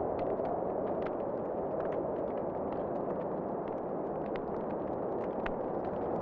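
Wood fire crackling in a fireplace, with frequent small, irregular pops and snaps over a steady rushing background of wind.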